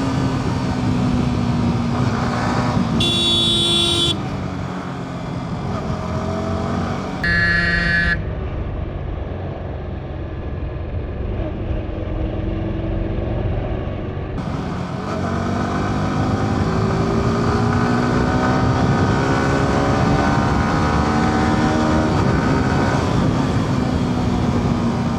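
Yamaha R15's single-cylinder engine pulling on the road, its pitch falling and rising as the bike slows, accelerates and shifts. Two short horn toots sound about three and seven seconds in.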